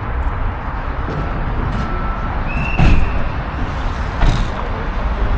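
Steady low rumble with a loud thump about three seconds in and a sharper knock about a second later.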